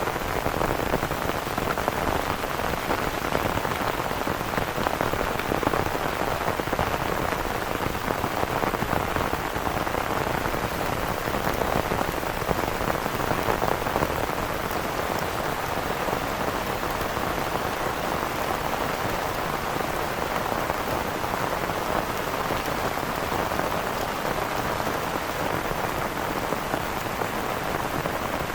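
Heavy rain falling steadily on a surface, a dense unbroken patter.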